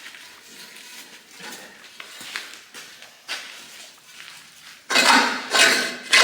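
A stuck steel boiler fire tube being worked in its tube plate: light metal clicks and scraping, then three loud, harsh metal scrapes near the end.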